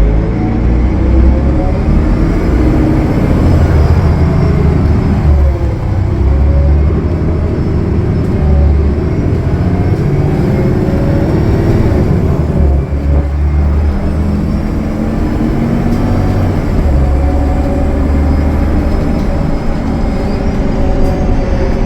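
Gillig Low Floor transit bus's Cummins ISL9 diesel running at highway speed, heard from on board over heavy low road rumble, its pitch slowly rising and falling with a faint high whine above it.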